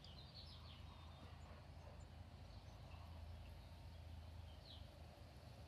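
Near silence: quiet outdoor air with a low steady hum and a few faint bird chirps near the start and again near the end.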